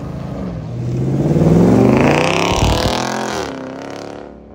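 A Mopar car's engine revving as it accelerates past. Its pitch climbs over the first two seconds, then falls and fades as the car pulls away, and the sound cuts off abruptly at the end.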